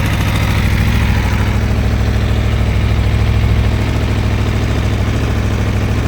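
2019 Aprilia Tuono V4 Factory's V4 engine idling steadily, shortly after a cold start.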